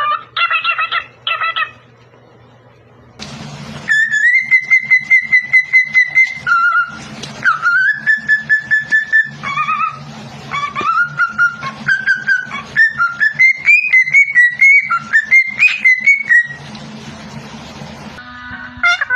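Pet parrot whistling: a few short repeated calls, then after a short pause a long run of high whistled notes that step up and down in pitch and pulse rapidly, like a tune.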